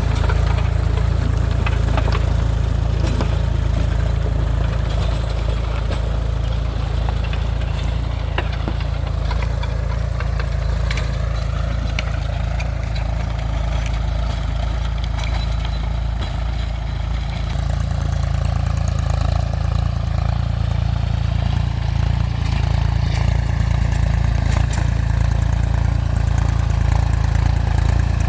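Mahindra 275 DI TU tractor's diesel engine running steadily, dropping slightly in level a little past halfway and then picking up again.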